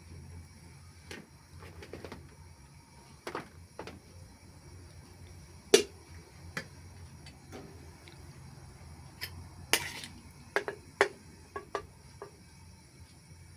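Irregular clinks and knocks of kitchen utensils and cookware being handled, over a low steady hum. The sharpest knock comes about six seconds in, and a quick run of clinks comes near the end.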